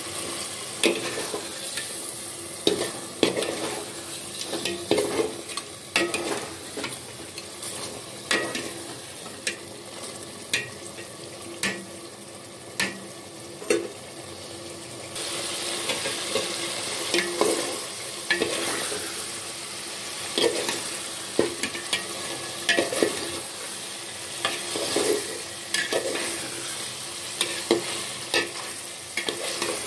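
Beef curry frying in oily gravy in a metal pot, sizzling steadily, while a metal spoon stirs it, clicking and scraping against the pot at irregular intervals. The sizzle grows louder about halfway through.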